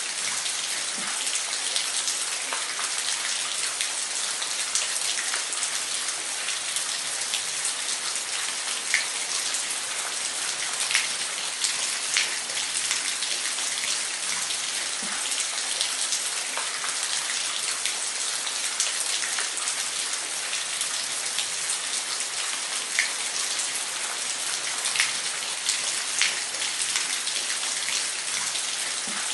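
Waterfall: a steady, even hiss of falling, splashing water with scattered small splashes and drips.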